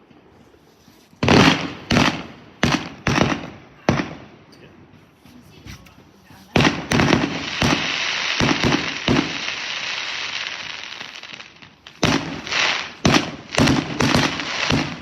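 Fireworks going off: a run of sharp bangs, then several seconds of dense crackling with a few bangs in it, then another quick string of bangs near the end.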